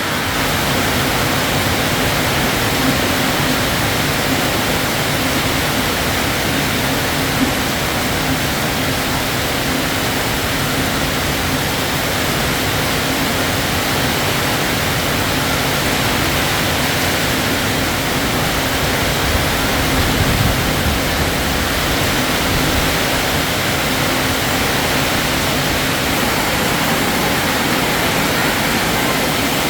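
Steady rainfall, an even unbroken hiss of rain.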